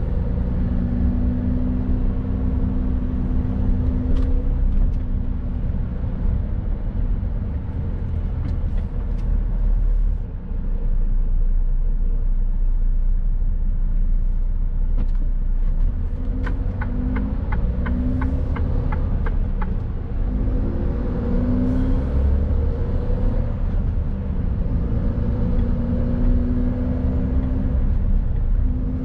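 Mercedes-Benz Actros truck driving, its engine running with a steady low rumble and road noise, the engine note shifting up and down. A run of about ten regular clicks, roughly three a second, comes a little past halfway.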